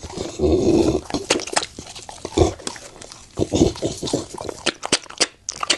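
Bully-breed dog chewing on a crocodile leg: rapid sharp crunches with a few louder, lower noisy bursts in between.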